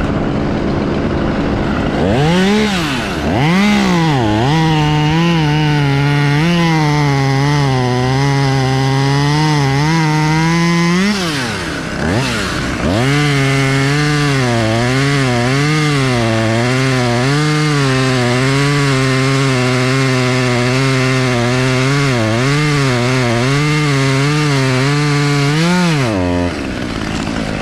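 Chainsaw cutting through white oak wood, its engine pitch sagging and wavering under load. The saw lets off briefly about eleven seconds in, revs back up and cuts again, then drops back to a lower speed near the end.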